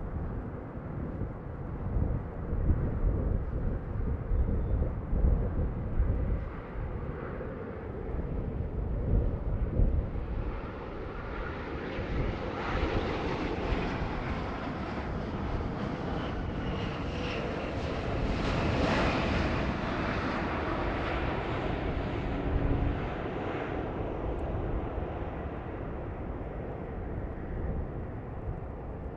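An airliner's jet engines swelling as the plane approaches, peaking about two-thirds of the way through and then fading as it passes. Gusty wind buffets the microphone during the first third.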